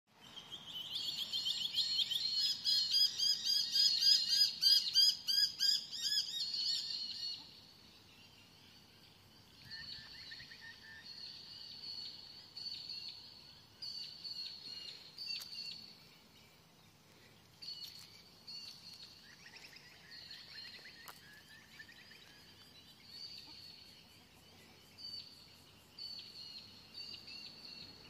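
Small birds chirping and singing in rapid repeated high notes, loud for the first seven seconds or so, then quieter scattered chirps and short calls.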